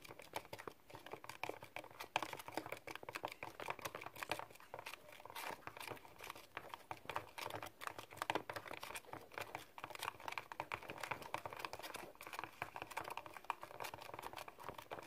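Unactivated glue slime base with soap, conditioner, lotion and baby oil being stirred in a container: a steady run of soft, irregular wet clicks and crackles.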